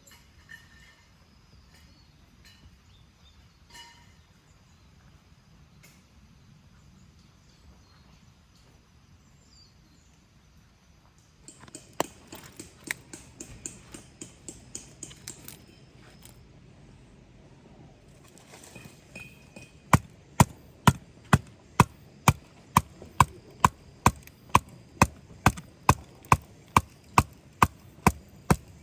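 Sharp, evenly paced knocks on wood, about two to three a second, begin loudly about twenty seconds in, after a lighter run of taps around twelve seconds. Before that there is only quiet outdoor background with faint bird chirps.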